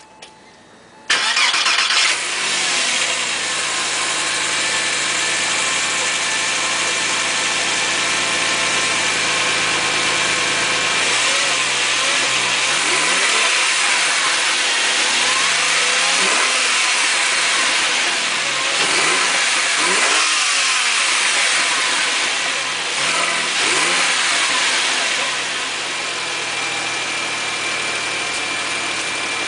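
Stock 2004 Porsche 911 Carrera (996) 3.6-litre flat-six, started from cold about a second in: it fires and settles into a steady high cold idle. About midway it is revved in several short blips, rising and falling, then settles back to idle near the end. It is heard with the engine lid closed and the stock exhaust.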